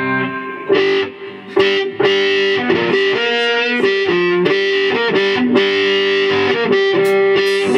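Electric guitar through distortion playing a line of held notes that change pitch every half second or so.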